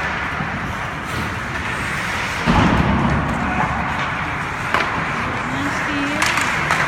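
Hockey game ambience: a steady noise of play with a few sharp clacks and a heavier thud about two and a half seconds in.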